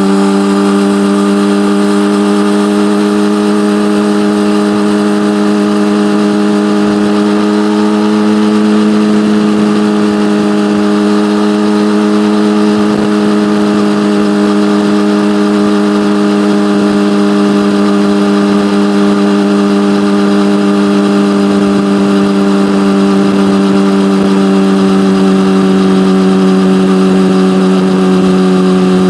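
Yamaha motorcycle engine through an SC-Project aftermarket exhaust, running at steady revs while cruising; the pitch drifts up slightly and eases back a little over the stretch.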